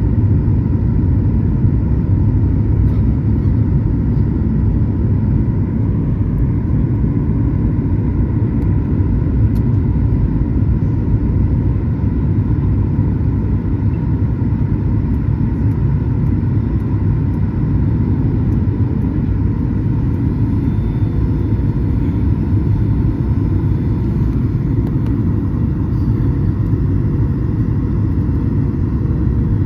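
Steady, loud low rumble of a Flydubai Boeing 737 jet airliner in flight on its landing approach, with a faint steady hum over it.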